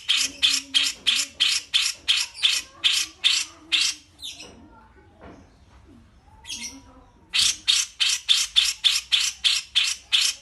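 Songbird giving rapid trains of harsh, repeated notes, about three or four a second. The train breaks off about four seconds in, with only a fainter call in the gap, and starts again about three seconds later.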